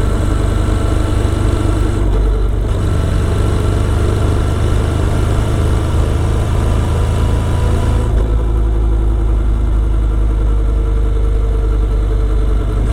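Motorcycle engine running steadily under way, with the engine note changing about two seconds in and again about eight seconds in.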